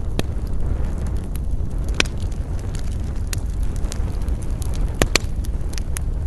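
Campfire crackling, with sharp pops of burning wood scattered through it, the loudest about two seconds in and a quick pair about five seconds in, over a steady low rumble.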